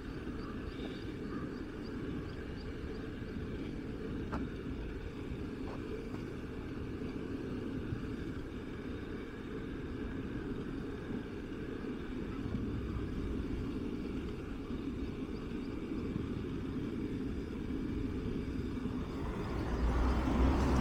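Steady low rumble of road traffic, swelling louder near the end.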